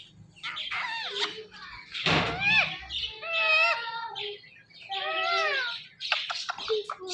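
Indian ringneck parrot calling and chattering: a string of short chirps and squawks with a few longer rising-and-falling calls.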